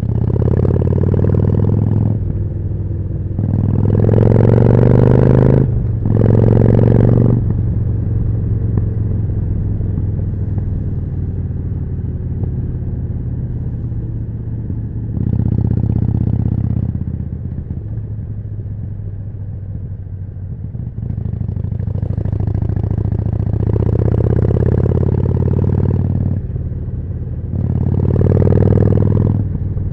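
Harley-Davidson Forty-Eight's 1200 cc V-twin running through a Jekill & Hyde exhaust while riding. There are three hard accelerations early on, broken by short dips in level, another about halfway through, and two more near the end, with steadier running between.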